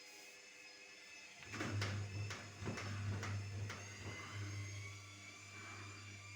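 Electrolux washing machine starting up: a low hum sets in about a second and a half in, with several sharp knocks over the next two seconds, then runs on steadily.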